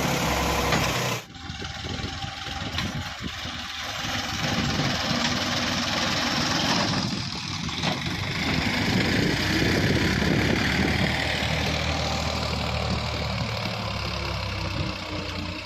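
Sonalika tractor's diesel engine running steadily, with a brief sharp drop about a second in.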